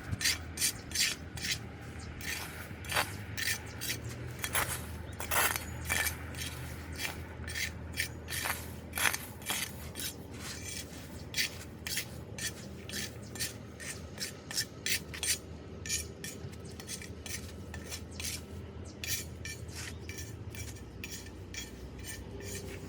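Repeated scraping strokes of a metal tool clearing debris off a street drain grate, irregular at one to two a second and thinning out near the end, over a steady low rush of water and rain.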